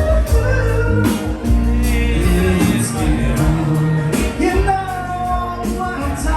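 Live band playing a rock song: a singer over a heavy bass line and a steady drum beat.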